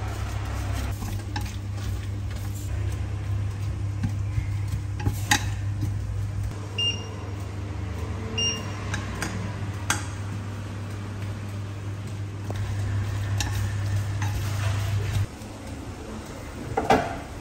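Kitchen cooking sounds at an induction hob: a steady low electrical hum with occasional clinks of a utensil against the pan and two pairs of short electronic beeps. The hum cuts off suddenly near the end, followed by a brief plastic clatter as the steamer lid is lifted.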